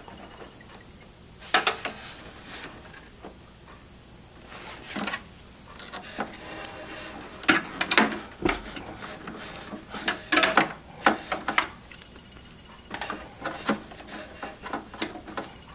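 Handling noises inside a desktop PC case as a SATA data cable is worked onto a hard drive: scattered irregular clicks, taps and knocks of plastic connectors and cable against the metal chassis, with soft rustling between.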